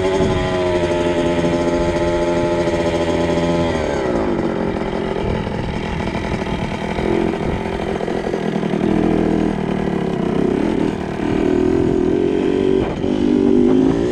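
2002 Kawasaki KX 65's two-stroke single-cylinder engine running at steady revs, then dropping sharply in pitch about four seconds in. It goes on with uneven revving, climbing and falling, toward the end.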